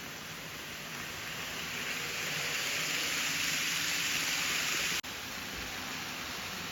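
N-gauge model train running on the layout track: a steady hissing rumble of wheels and motor that swells over a few seconds, breaks off abruptly about five seconds in, then carries on a little quieter.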